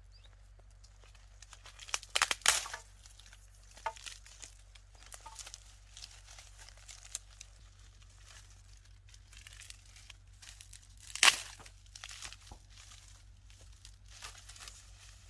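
Dry reeds rustling and crackling as they are handled, with louder crunching bursts about two seconds in and again around eleven seconds.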